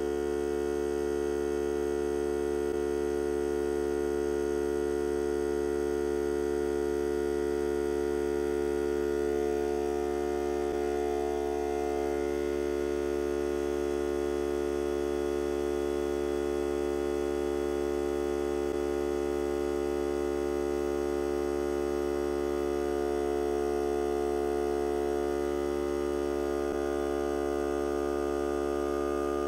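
Hart cordless air compressor running steadily: a continuous motor hum whose pitch wavers slightly twice, as air is drawn from it for breathing.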